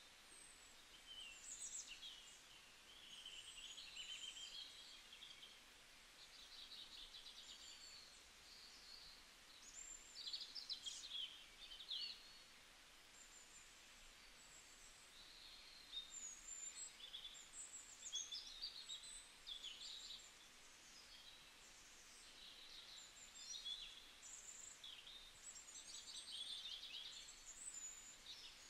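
Faint birdsong: many small birds chirping and trilling in short, overlapping calls over a light background hiss.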